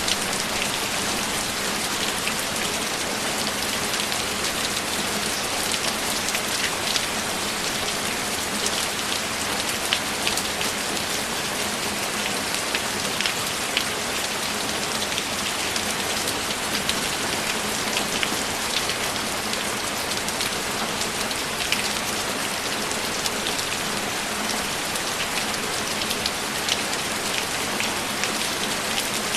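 Steady rain falling on a surface, with scattered individual drops ticking above the even hiss.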